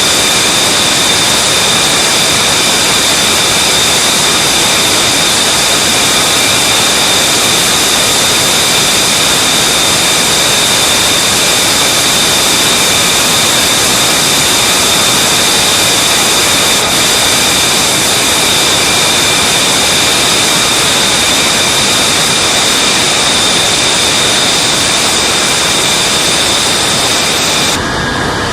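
F-35B fighter's Pratt & Whitney F135 jet engine running steadily and loud, a broad rush of noise with a high whine held at a constant pitch. The sound changes abruptly near the end.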